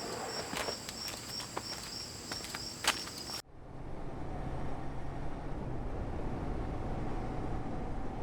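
Crickets chirping in a steady pulsing trill, with a few sharp clicks and knocks. About three and a half seconds in the sound cuts abruptly to a steady low vehicle rumble with a faint hum.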